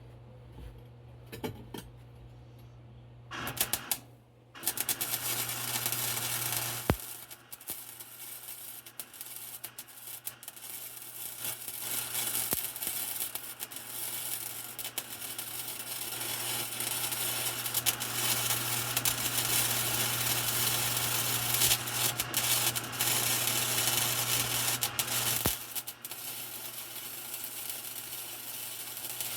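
Electric arc welding: the arc crackles steadily from about three seconds in, with brief breaks, over a steady low electrical hum.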